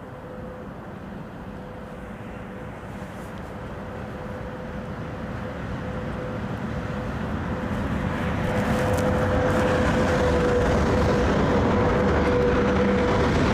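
VL80S two-section electric locomotive with a freight train, getting steadily louder for about eight seconds and then holding level, with a steady hum running through it.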